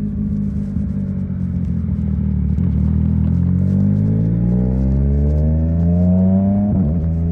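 Yamaha MT-09's 890 cc inline-three engine under way, running steadily at first and then pulling with the revs climbing for a few seconds. Near the end the pitch breaks sharply and drops, as in a quick upshift, then carries on steady at lower revs.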